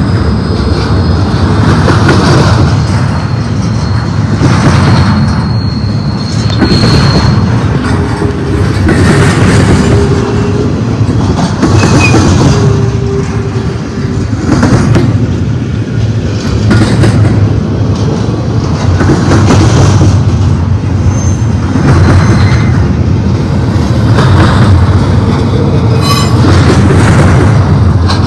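Intermodal freight train's well cars rolling past close by: steel wheels clattering over the rail, swelling and fading about every two seconds as each set of wheels goes by, with a few brief wheel squeals.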